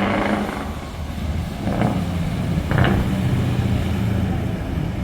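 Truck's V8 engine with open exhaust pipes running with a steady low drone, with two short sharp bursts about two and three seconds in.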